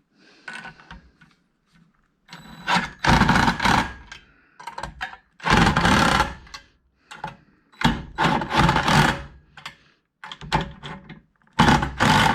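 Power driver with a 14 mm socket running nuts down on a metal bracket in short bursts, four times, with small clicks of handling between them. It is loud and rattly, typical of an impact driver hammering a nut tight.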